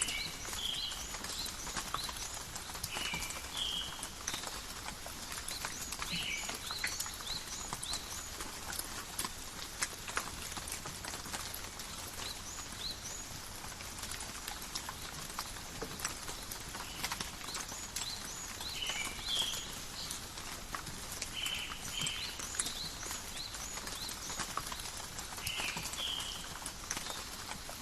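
Gentle rain falling in a forest, a steady hiss with many separate drops ticking and pattering on leaves. Short high chirps come every few seconds over the rain.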